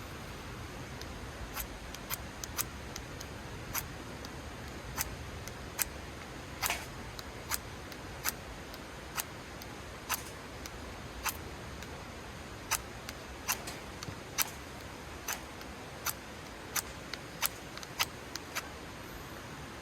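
Campfire of burning wood crackling: sharp, irregular pops about once a second over a low steady rush.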